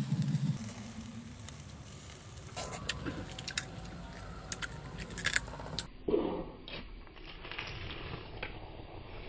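Eating sounds: crispy grilled frog being bitten into and chewed, with a run of sharp crunches and crackles in the middle and wet squishing sounds.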